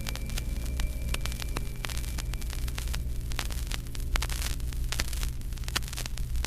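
Surface noise of an acetate disc playing between passages: dense crackles and clicks over a steady low hum, with a thin high tone fading out in the first couple of seconds.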